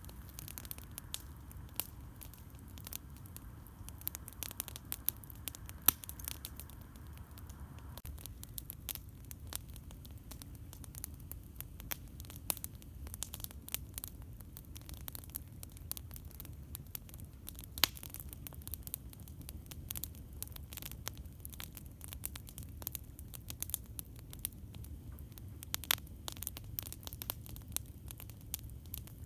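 Campfire crackling: irregular sharp pops and snaps over a low steady rumble, with a few louder pops, the loudest about six seconds in.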